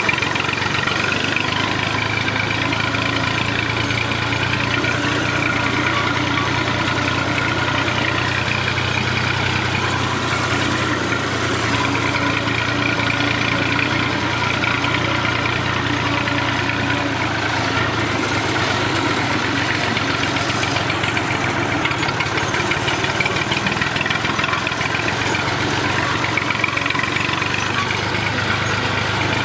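Massey Ferguson 240 tractor's three-cylinder diesel engine running steadily at an even speed.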